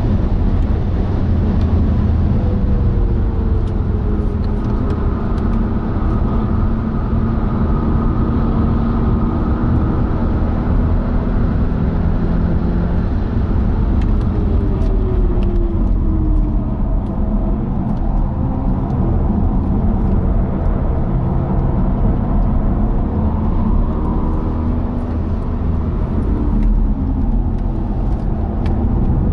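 BMW 420i Gran Coupe's tuned 2.0-litre turbocharged four-cylinder, fitted with a Bastuck catback exhaust, heard from inside the cabin running hard at high track speed over heavy wind and road noise. Twice the engine note falls in pitch as the car brakes and slows.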